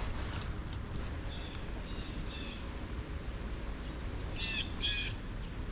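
A corvid calling: three short calls, then two louder ones near the end, each with several stacked tones.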